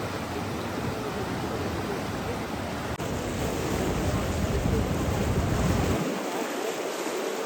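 Steady rushing water noise with no distinct events; about six seconds in the deep rumble underneath drops away.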